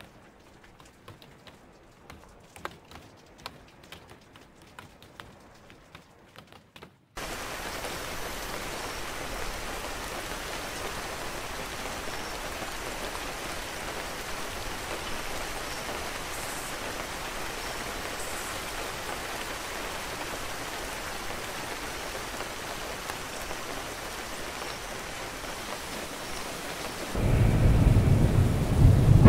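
Sparse light drip ticks of rain, then an abrupt cut about seven seconds in to steady, heavy rainfall. Near the end a loud, low rolling thunder rumble comes in over the rain.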